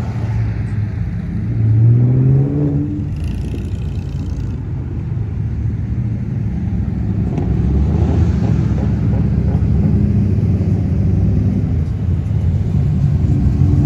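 Classic car engines rumbling as the cars cruise past. One revs with a rising pitch about two seconds in, there is a brief high hiss a second later, and a deeper low engine rumble builds from about eight seconds.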